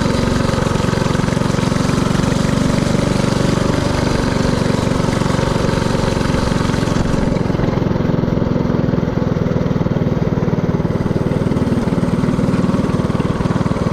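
Mini-bike's Predator 224cc single-cylinder four-stroke engine running steadily under way, with a hiss over it that falls away about halfway through.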